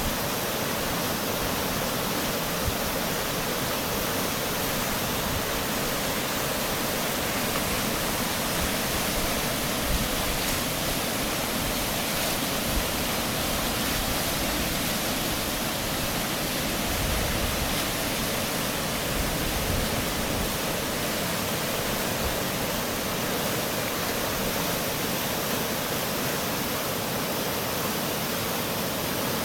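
Fast-flowing floodwater rushing past, a steady, unbroken wash of noise.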